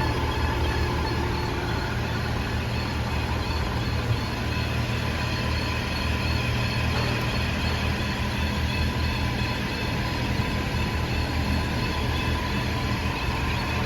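2018 Audi A5 Quattro drivetrain running steadily, a low rumble with a steady whine over it. The whine is the sign of a failing driveshaft center support bearing, which the technician says means replacing the driveshaft.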